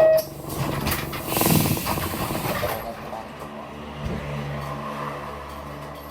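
Inside a city bus: a short electronic beep, then about two seconds of hissing air from the bus's pneumatics, then the bus engine running with a steady low hum.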